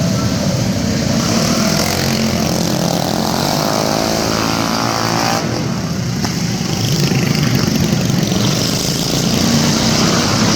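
Several small racing minibike engines running hard together, revving up and down. One engine's pitch climbs steadily between about two and five seconds in, then drops off briefly.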